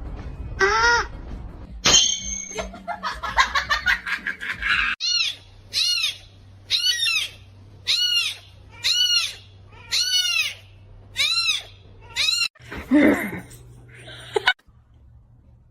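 An animal's high-pitched calls repeated about once a second, each call rising then falling in pitch, with a few lower falling calls near the start.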